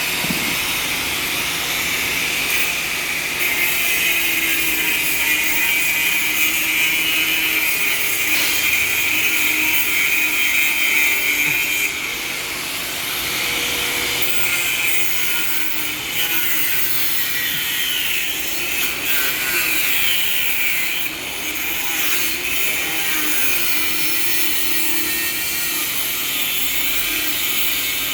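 Power grinder (taşlama) running steadily against the surface of a fishing boat, a continuous abrasive grinding noise that eases off briefly a couple of times as the tool is shifted.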